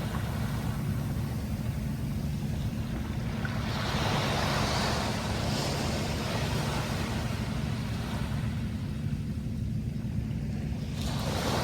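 Sea waves washing ashore: one wave breaks and hisses out about four seconds in, and another starts near the end, over a steady low rumble.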